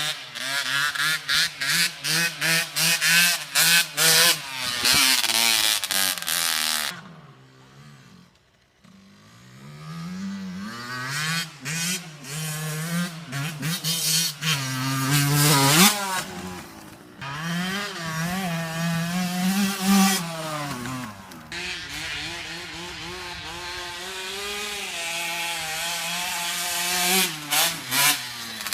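Dirt bike engine revving up and easing off again and again as it is ridden, with quick throttle pulses in the first few seconds. It drops almost to quiet about eight seconds in, then picks up again, with a sharp rev-up near sixteen seconds.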